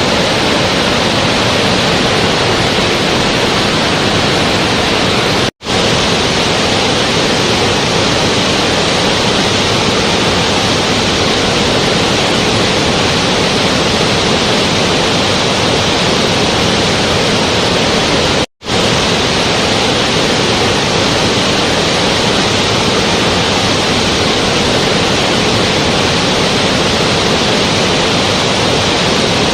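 A steady, even rushing noise with no distinct events, cut off abruptly for an instant twice: about five and a half seconds in and again near nineteen seconds.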